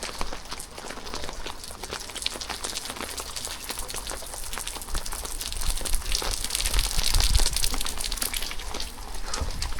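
Rain falling, a dense crackling patter of drops, with a low rumble swelling from about five seconds in and easing near the end.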